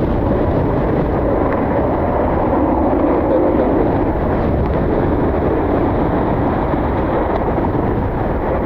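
Steady rumble of jet airliner engines with wind buffeting the microphone.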